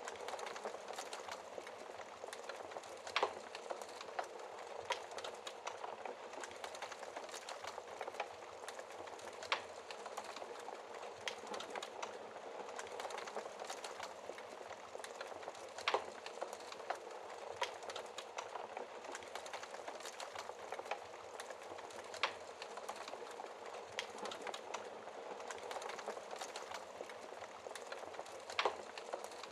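Wood fire burning in a fireplace: a steady soft hiss of flames with frequent sharp crackles and pops, a few louder snaps standing out.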